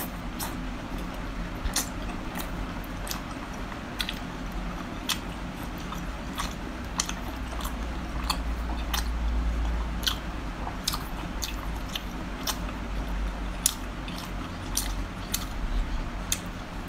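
Close-up chewing of cooked octopus, with many sharp, wet, irregular mouth clicks and smacks, over a low steady hum.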